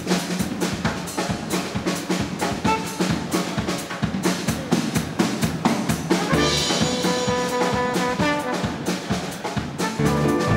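Small Latin dance band with trumpet, trombone, saxophones, bass and drums playing a fast number: it opens on a busy drum and percussion rhythm, the horns come in with held notes about six seconds in, and the full band gets louder near the end.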